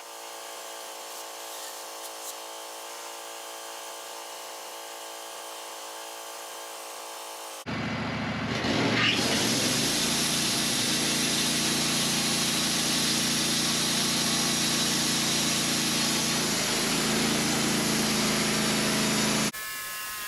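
Wood-Mizer LT15 bandsaw mill's engine running at a steady idle. About eight seconds in it gives way abruptly to the much louder sound of the mill's band blade sawing through a black cherry log with the engine under load.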